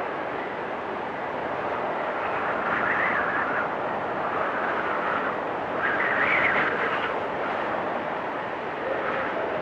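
Storm wind blowing hard and steady, with a whistling tone that rises and falls as it swells in three gusts.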